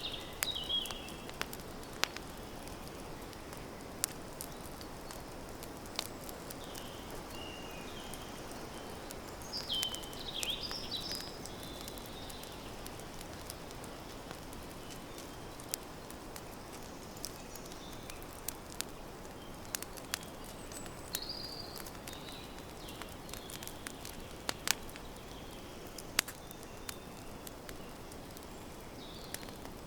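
Campfire crackling: a steady low hiss with sharp pops scattered every second or two. Short bird chirps come in every few seconds, the busiest stretch about ten seconds in.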